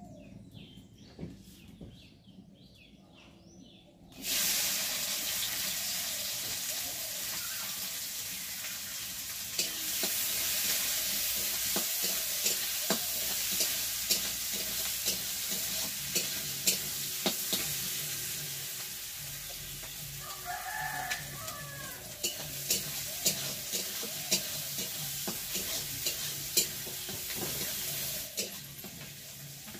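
Food hits hot oil in a wok about four seconds in and sets off a loud, steady sizzle of frying, with frequent clicks and scrapes of a spatula stirring against the pan. A rooster crows once in the background about two-thirds of the way through.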